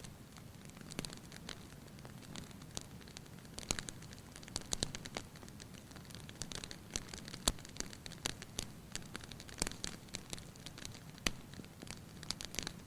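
Wood fire burning in a fireplace: a low steady hiss with irregular crackles and sharp pops, the loudest pop about halfway through.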